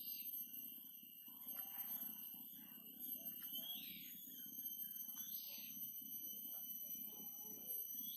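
Short bird chirps every second or two over a steady high-pitched ringing tone and a low hum.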